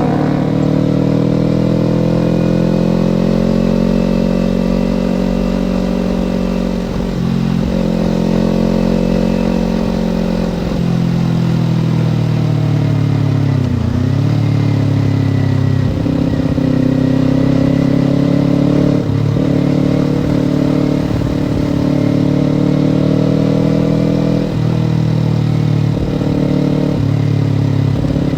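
Kawasaki Ninja parallel-twin engine running under way, its note rising and falling with the throttle. The pitch drops just after the start, sinks lower around the middle and picks up again, with several brief breaks in the note along the way.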